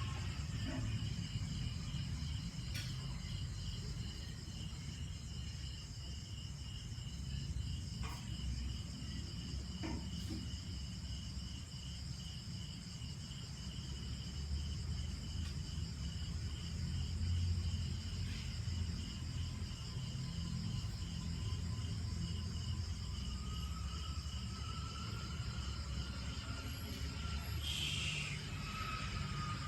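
Insects, crickets by the sound of it, chirring in a steady fast pulse, over a low rumble.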